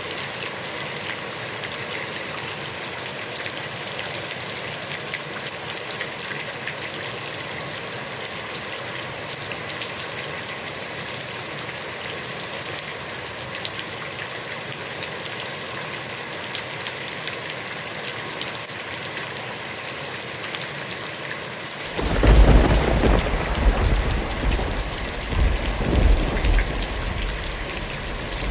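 Heavy rain falling steadily on a pond. About three-quarters of the way through, a loud low rumble of thunder breaks in and rolls on in waves for several seconds.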